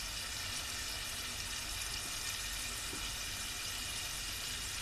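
Mutton, yogurt and spices sizzling steadily in hot ghee in an aluminium pot on a gas stove.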